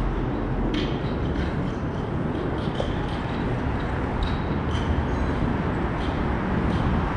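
Wind buffeting the microphone with a steady low rumble, and light footsteps at a walking pace.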